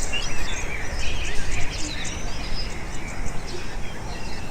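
Faint, scattered bird chirps over a steady noisy hiss of background ambience.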